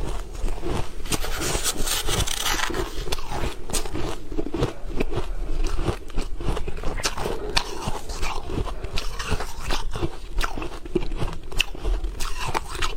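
A person biting and crunching ice close to the microphone, with dense, irregular crunches and cracks throughout.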